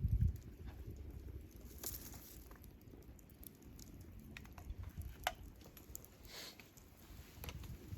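Wood campfire crackling: scattered sharp snaps and pops, a few seconds apart, over a soft low rumble, with a dull thump at the start.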